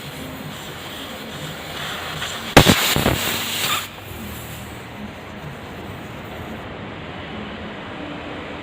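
A single sudden loud bang about two and a half seconds in, followed by about a second of hissing noise that fades out; a low steady background otherwise.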